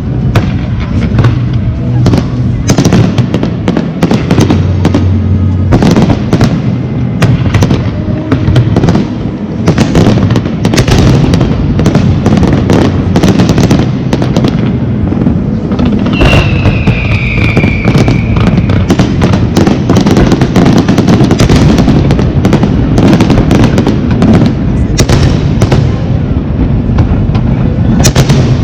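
Loud fireworks display: a dense, continuous run of shell bursts and crackles over a heavy rumble. About sixteen seconds in, a whistling firework gives one falling whistle.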